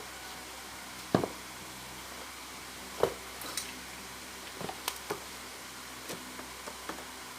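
A knife being worked through the rubber of an old auto-rickshaw tyre: a string of short, sharp clicks and knocks as the blade cuts and the tyre shifts, the loudest about a second in and about three seconds in, over a steady faint hiss.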